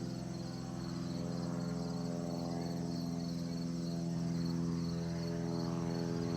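Drone of a light propeller aircraft's engine, growing slowly louder, with crickets chirping in a pulsing high trill.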